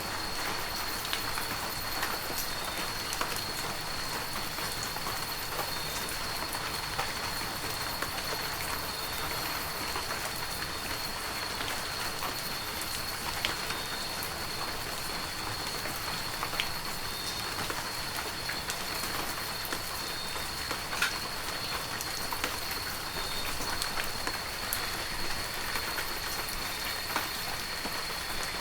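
Heavy rain falling steadily, a dense even hiss with many separate drops pattering and ticking on surfaces. A faint high steady whine runs underneath.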